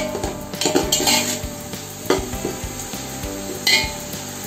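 Oil sizzling as a steel ladle stirs and scrapes browned onions, herbs and green chillies around an aluminium pot, with sharp scrapes and clinks of the ladle on the pot around one second in, about two seconds in and again near the end. This is the frying of the biryani's onion and ginger-garlic base.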